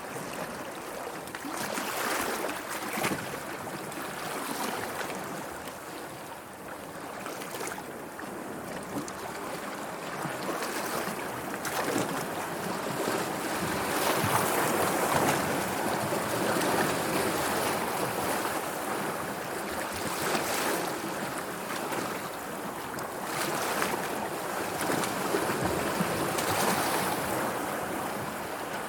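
Sea waves washing in a continuous rush, swelling and easing every few seconds.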